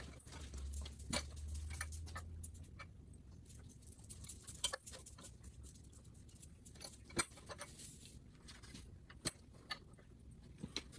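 Sparse light clicks and taps of plastic trim parts and clips being handled and fitted, with a low hum in the first couple of seconds.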